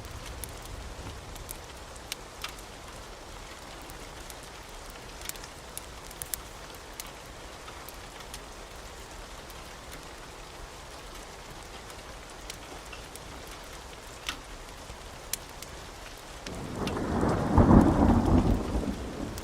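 Steady rain with scattered sharp crackles from a fireplace, then a loud rumble of thunder swelling and fading near the end.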